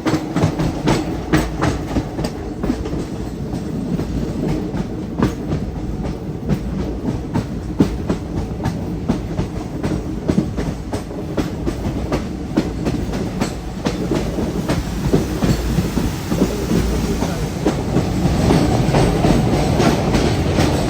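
Train running on the rails: a steady low rumble with a quick, uneven run of wheel clicks over rail joints, growing louder in the last few seconds.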